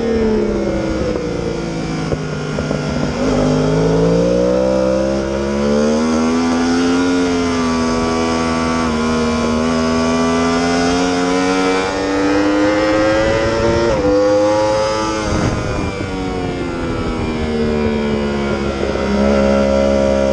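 Yamaha R1 inline-four sport bike engine at speed on a race track. The revs fall at first, climb and hold, rise again, then drop sharply about fifteen seconds in and climb once more near the end, as the bike brakes and accelerates through corners.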